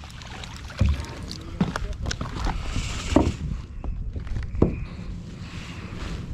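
Out on a kayak: a steady low rumble of wind on the microphone, with a few sharp knocks against the hull.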